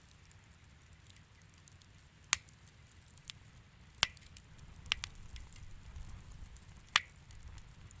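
Wood fire crackling in a fireplace: a constant faint crackle with four sharp pops, about two, four, five and seven seconds in.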